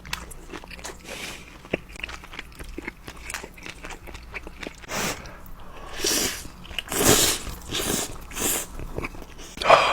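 A person biting into and chewing crunchy food close to the microphone, with a run of small crackles and several louder crunches from about five seconds in.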